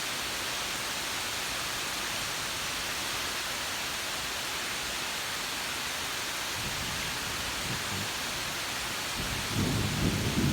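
Heavy rain pouring steadily, with thunder rumbling in faintly about six and a half seconds in and growing louder near the end.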